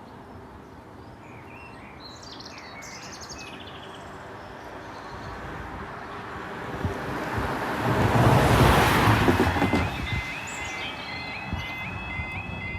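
A road vehicle passes close by, its tyre and engine noise swelling and fading, loudest about eight seconds in. About ten seconds in, the level crossing's audible warning starts: a repeating high two-tone warble that signals the barriers are about to lower. Birds chirp in the first few seconds.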